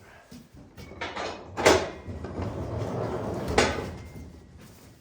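A barn or stall door sliding, a rolling rumble with two loud bangs about two seconds apart.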